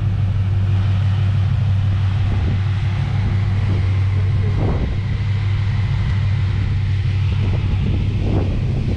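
Car driving along: a steady, loud low engine and road rumble.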